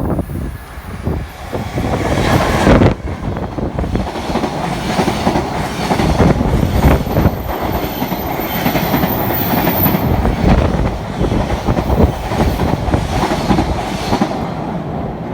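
A Joban Line train passing close by, its wheels clattering steadily over the rail joints. A thin, high whine sounds through the middle of the pass.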